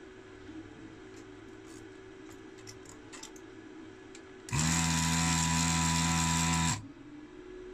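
A small electric motor runs at a steady pitch for about two seconds, switching on and off abruptly just past the middle, over a low steady hum and a few faint clicks of handling.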